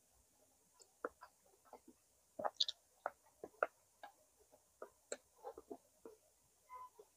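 Close-up mouth sounds of eating smoked chicken: irregular wet clicks and smacks of chewing, several a second, with the loudest smacks about two and a half seconds in and again a second later.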